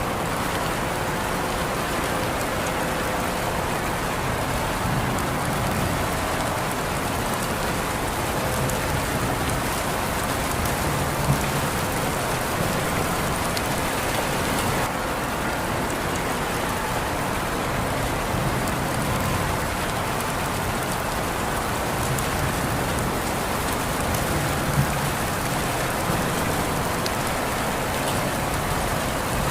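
Steady rain falling on surfaces, an even dense hiss with occasional individual drops standing out.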